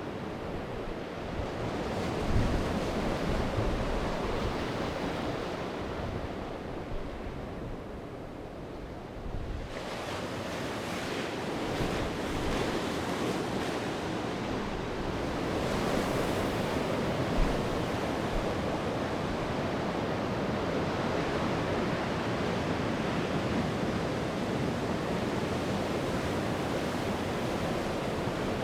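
Sea waves breaking and washing onto the shore, with wind gusting on the microphone. About ten seconds in a wave breaks and the hiss of its wash rises and carries on.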